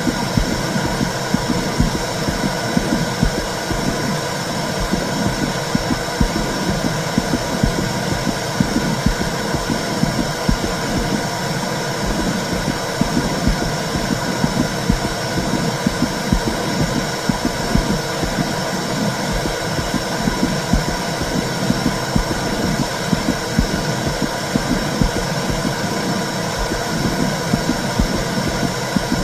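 Womb sound for soothing a baby: a steady low whooshing noise with frequent pulses in the deep bass, like a heartbeat heard from inside the womb.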